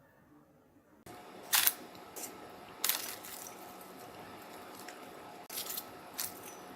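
Several sharp clicks and clinks of kitchen utensils against cookware over a steady background hiss, starting about a second in, the loudest about a second and a half in.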